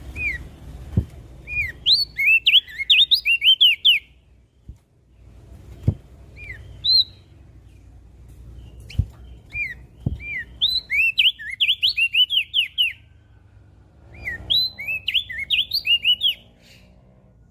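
Crested white-eye (opior jambul) singing: phrases of quick, high, slurred chirping notes a few seconds long, with short pauses between them.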